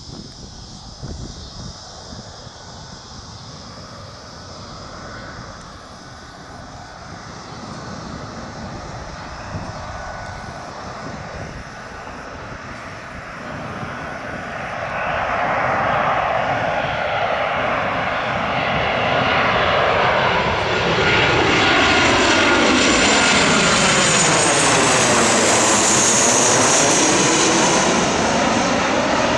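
Boeing 737 jet airliner on approach to land, its turbofan engines growing steadily louder as it comes in and passes close overhead, with a high whine. It is loudest in the last third.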